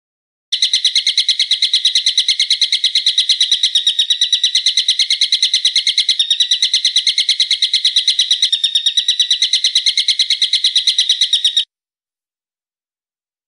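A bird calling in a fast, steady series of sharp, high repeated notes, about nine a second, for roughly eleven seconds. The series starts and stops abruptly.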